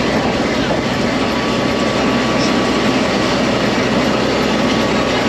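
Tourist tram in motion: a steady, unbroken running noise of its motor and wheels.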